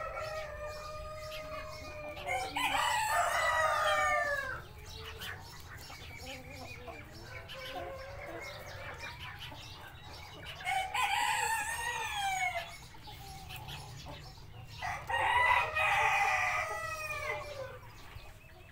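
Cochin chickens: three rooster crows, each about two seconds long and ending in a falling note, with quieter clucking in between.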